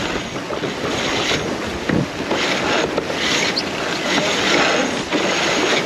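Wind buffeting the microphone over water washing and splashing around a sailboat, in uneven surges.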